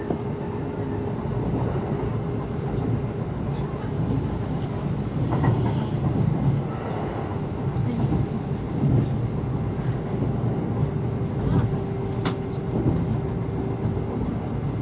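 Kintetsu 12200 series electric limited express running at speed, heard from inside the passenger car: a steady low rumble of wheels on rail with a thin steady hum that fades in and out, and a few sharp clicks.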